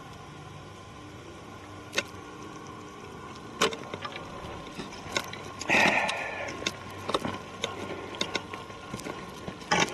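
Footsteps on a forest trail: a few scattered crunches and snaps, with a louder scuffing rustle about six seconds in.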